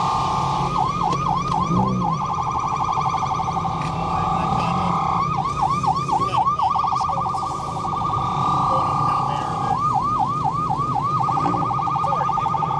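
Police car siren sounding in a fast warble, switching three times to a short run of quick up-and-down swoops before returning to the warble. It is being blasted to clear the car meet from the parking lot.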